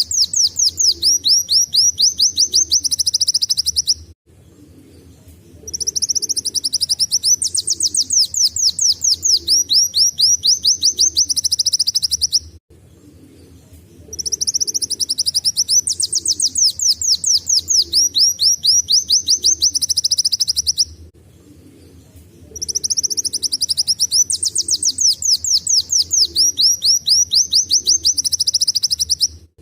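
Kolibri wulung (Van Hasselt's sunbird) singing in the 'nembak' style that mimics a canary: long phrases of rapid, high, down-sweeping notes, several a second, broken by short pauses of about a second and a half.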